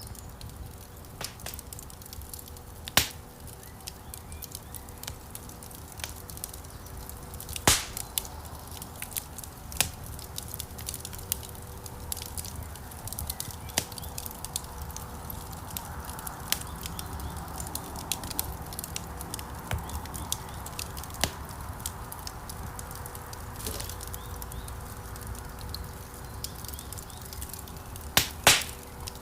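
Wood fire burning in a stone fireplace: a low steady rumble of flames with frequent sharp crackles and pops of burning logs, the loudest pops about 3 and 8 seconds in and a quick double pop near the end.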